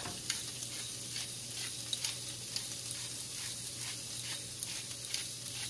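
Shredded cooked pork sizzling in a hot nonstick skillet: a steady frying hiss with scattered small crackles.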